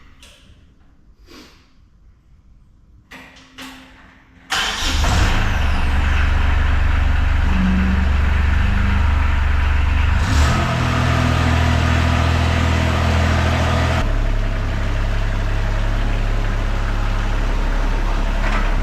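KRT ST900HD mini skid steer's engine starting suddenly about four and a half seconds in, after a few faint knocks, then running steadily. Its note changes near ten seconds and again near fourteen.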